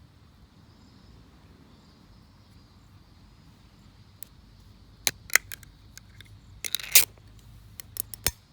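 Quiet background, then about halfway through a run of sharp clicks and clinks from objects being handled, with a short, denser clatter near the end that is the loudest moment.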